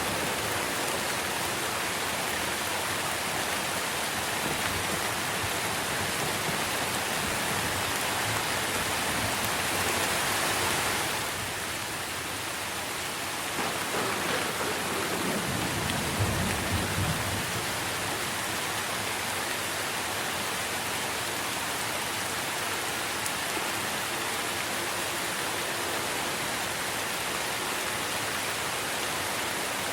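Steady rain falling on tree foliage, an even hiss, with a low rumble of thunder rising and fading about halfway through.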